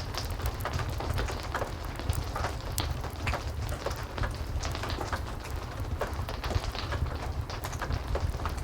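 Steady heavy rain over a low rumble, with fireplace crackling: many short, irregular snaps scattered throughout.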